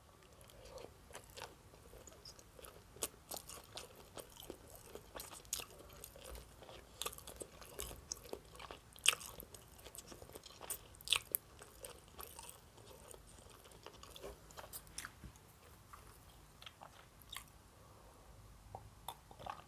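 Close-miked chewing of a mouthful of sushi roll: soft, irregular wet mouth clicks and smacks.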